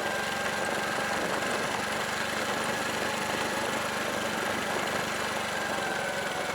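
Honda Super Cub's single-cylinder four-stroke engine running steadily while riding, under a steady hiss.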